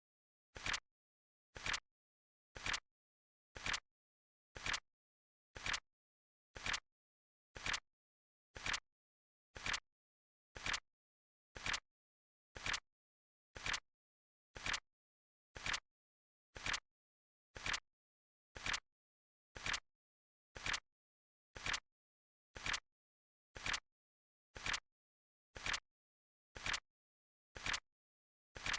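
Countdown timer's clock sound effect: sharp, identical ticks, one each second, steady and even.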